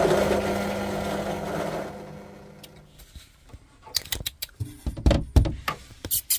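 An electric drill motor running steadily, then winding down and falling quiet two to three seconds in. A series of sharp clicks and knocks follows.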